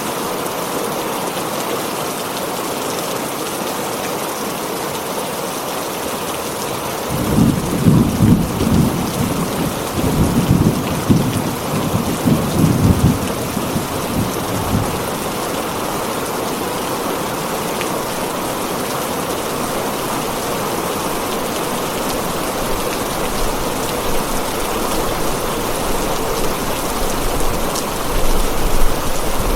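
Heavy rain falling steadily on a tin roof. About seven seconds in, a low rolling rumble of thunder swells and fades over roughly eight seconds.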